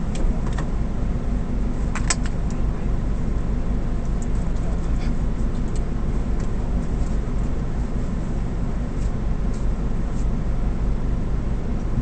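Suzuki Swift Sport rally car's engine idling steadily while standing at a stage start, heard from inside the cabin. A few sharp clicks about two seconds in.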